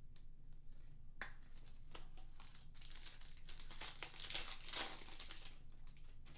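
Foil trading-card pack wrapper crinkling and tearing as a pack is ripped open by hand, with a few sharp crackles and then a busy stretch of crinkling in the middle.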